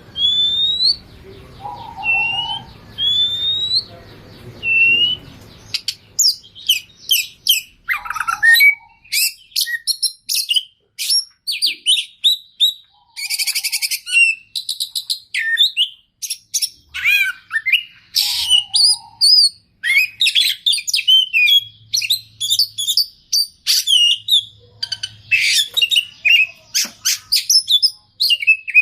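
Oriental magpie-robin (kacer) singing: a few rising whistled notes, then from about six seconds in a fast, varied song of chirps, trills and whistles packed with mimicked phrases of other birds.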